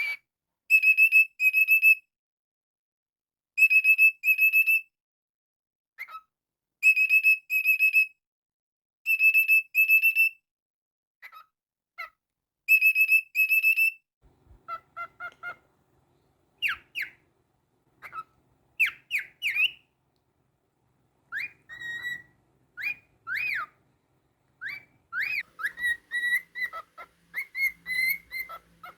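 Cockatiel whistling: a short phrase of level-pitched notes repeated about five times with pauses between. About halfway through it changes to quicker chirps that swoop up and down in pitch.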